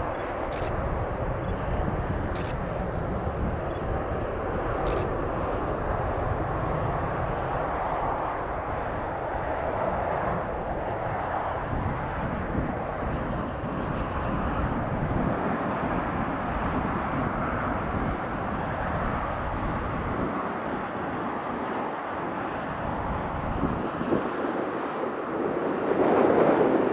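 Aircraft engines running at an airport: a steady rushing noise with a low rumble that thins out about twenty seconds in.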